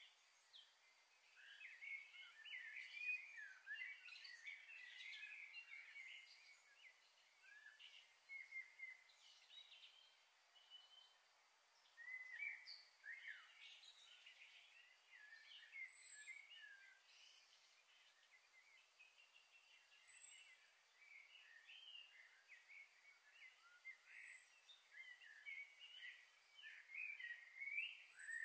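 Faint, busy chirping of small birds: many short high calls overlapping throughout, over a steady faint hiss.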